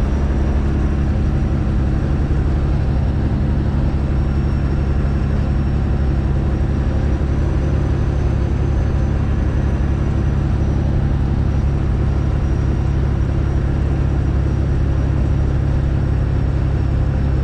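Straight-piped Freightliner Classic XL's Detroit Diesel engine running at a steady, unchanging speed with a loud, deep exhaust rumble.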